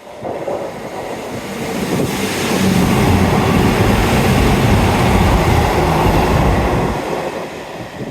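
A train running through the station, its rumble and wheel noise growing louder to a peak in the middle and fading away near the end.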